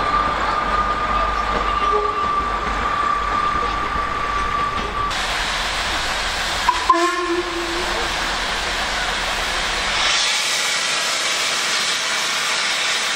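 Trains at a railway station: a steady high tone for about the first five seconds, a sharp knock about seven seconds in, then a steady hiss from about ten seconds in.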